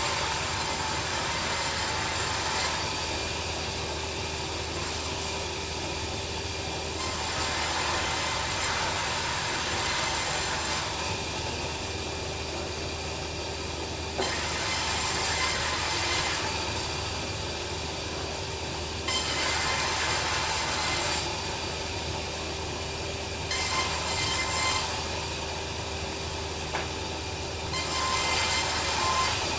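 Bandsaw sawmill running with a steady hum while its blade cuts through timber. The cutting noise swells and eases every few seconds.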